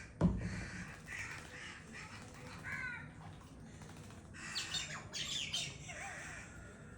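Crows squawking and calling in short harsh bursts, with a cluster of calls about halfway through. There is a sharp thump about a quarter second in.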